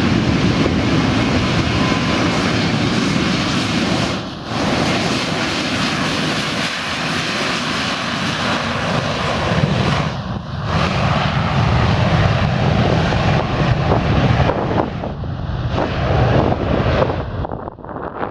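Boeing 737-900ER's CFM56 jet engines running at high take-off thrust, a loud, steady, rushing noise with a few brief dips in level.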